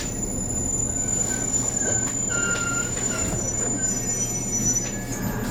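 JR Kyushu 813 series electric train heard from inside the car, running slowly with a steady low hum and a thin high whine, with several short high-pitched squeals from the wheels and brakes.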